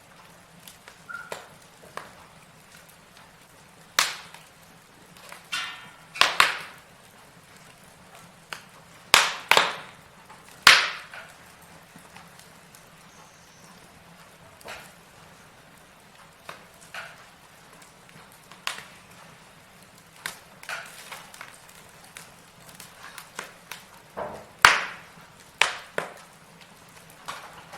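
Log fire crackling: irregular sharp pops and snaps of burning wood, some loud and some faint, over a faint steady low hiss.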